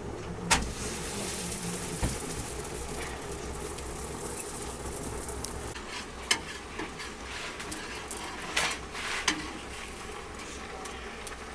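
Food cooking in a pan: a steady sizzling hiss, strongest in the first few seconds, broken by about five sharp clicks or knocks, the loudest about half a second in.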